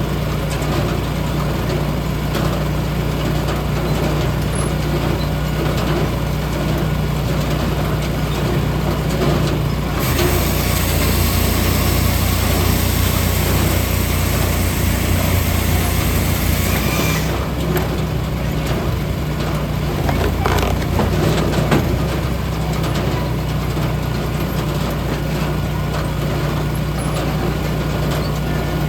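A large engine running steadily at a constant speed, with a loud hiss added from about a third of the way in until a little past halfway.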